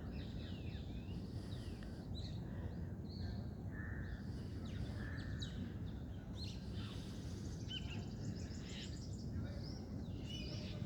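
Birds chirping and calling in many short, scattered notes over a steady low rumble of outdoor background noise.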